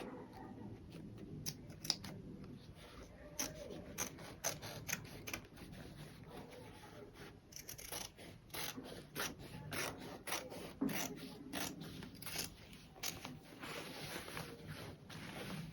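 Fabric and sewing tools being handled: irregular rubbing and rustling with many small sharp clicks.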